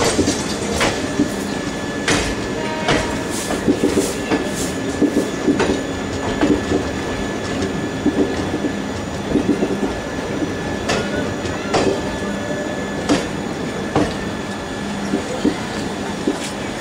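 Indian Railways passenger train running along a station platform, heard from the carriage window: steady rolling noise with irregular sharp clacks and knocks as the wheels cross rail joints and points.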